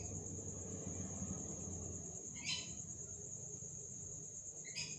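Steady high-pitched chirring of crickets, with three short high chirps about two seconds apart.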